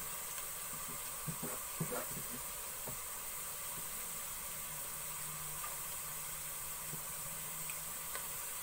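Sliced onions frying in oil in a pot at the light-brown stage: a steady sizzle, with a few small pops about one to two seconds in.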